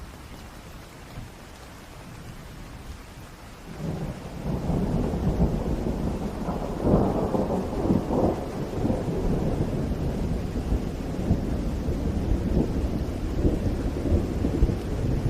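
Rain falling, then about four seconds in a roll of thunder breaks in and rumbles on, loudest with crackling peaks a few seconds later.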